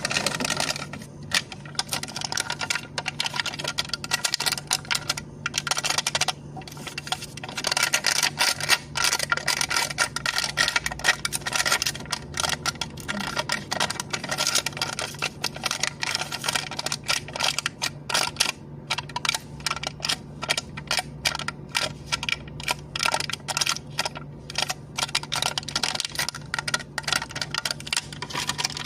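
A cup lid being tapped and fiddled with in rapid, irregular clicks and ticks, going on without pause. A low steady hum runs underneath.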